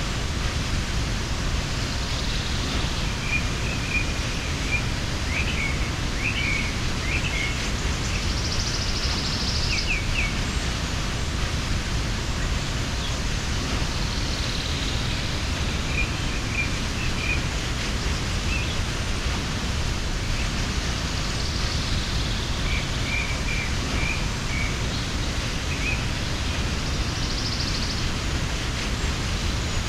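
Waterfall rushing steadily, with small birds chirping in short scattered bursts over it, more in the first third and again past the middle.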